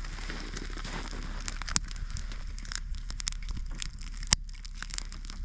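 Kindling in a newly lit campfire crackling and popping as it catches, with irregular sharp snaps; the loudest comes about four seconds in.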